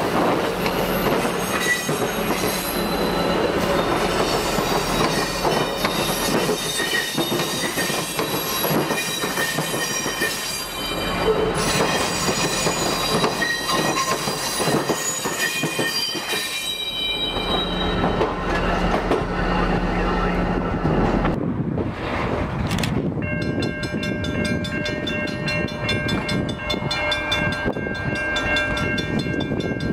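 A train rolling past close by, its wheels squealing in several high ringing tones; the squeal fades after about 17 seconds. After a cut a little past 20 seconds, a locomotive horn sounds steadily from an approaching train.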